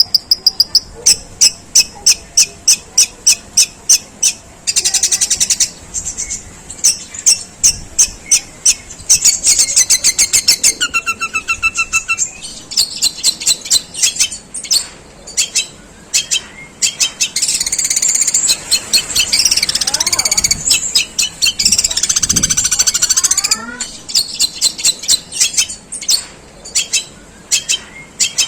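Long-tailed shrike singing a long, harsh song of rapid-fire sharp notes in the style of a tree sparrow's chatter, with a few short whistled phrases. A denser, rasping stretch comes about two-thirds of the way through.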